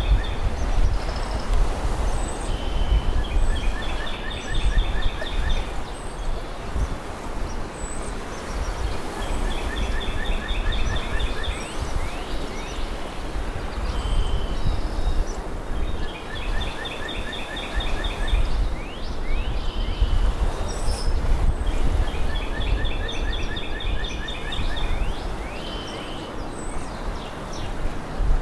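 Outdoor ambience: a steady low rumble with a songbird repeating a phrase of a short note followed by a fast trill, four times about every six to seven seconds, and faint high chirps scattered through it.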